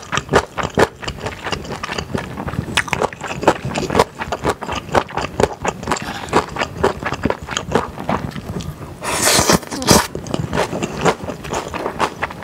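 Close-miked chewing of spicy beef-brisket yakisoba with thick glass noodles, with many small wet mouth clicks. About nine seconds in there is a hissing sound lasting about a second.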